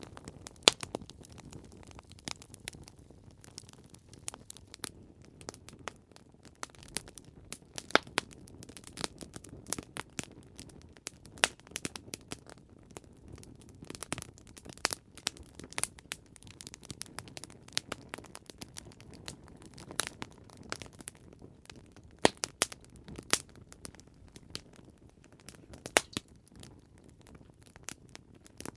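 Campfire crackling and popping: irregular sharp snaps of burning wood, several a second, over a low steady rumble of the flames.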